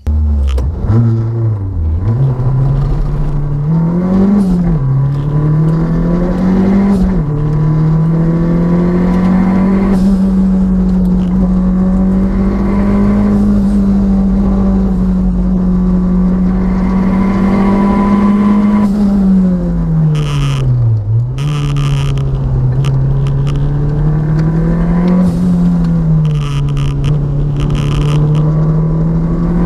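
Renault 5 GT Turbo's turbocharged four-cylinder engine being driven hard, revs climbing and dropping at each gear change, with a long stretch held high in the revs and a few brief crackles. The turbo's wastegate actuator is wired shut, with a zip-tied dump valve feed as the only check on overboost.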